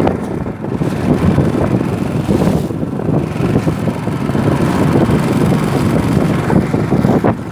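Strong wind buffeting the microphone over the steady running of a canoe's longtail outboard motor (rabeta) on choppy water.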